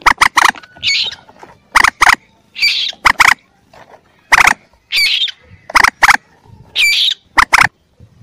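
Common moorhen calls, given as those of a young bird and used as a hunter's lure: a squawky note and pairs of short, sharp notes, repeating about once a second.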